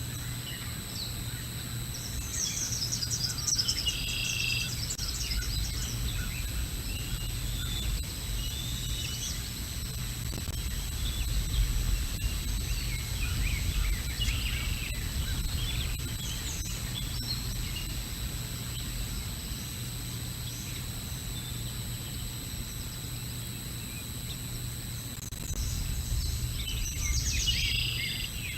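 Small songbirds chirping in short bursts, a cluster near the start, a few in the middle and another near the end, over a steady low outdoor rumble and a thin, high steady electronic whine from the camera microphone.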